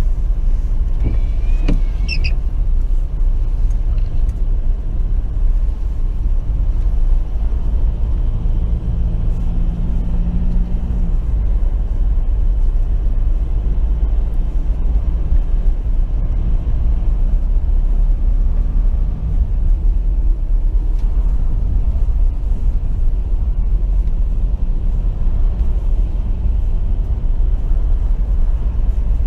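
Steady engine and road rumble heard from inside a pickup's cabin as it drives slowly through snow. A brief high squeak comes about two seconds in.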